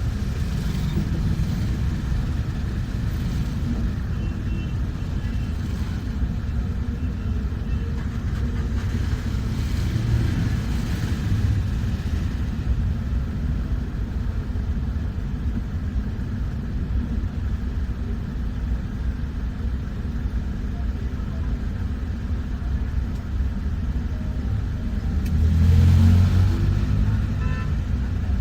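Moving bus heard from inside: a steady low rumble of engine and road noise, swelling louder near the end.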